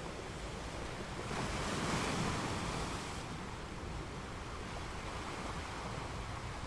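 Gentle ocean waves on a sand beach: a steady surf hiss, with one wave breaking and washing in about a second in, louder for about two seconds before settling back.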